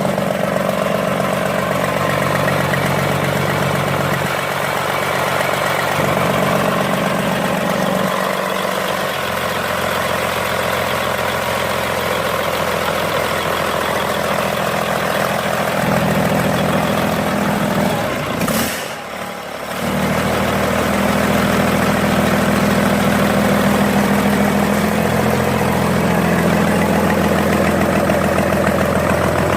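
Komatsu SA6D125-series six-cylinder diesel engine running on a ground test, its speed shifting up and down a few times. A brief dip in level comes a little past the middle.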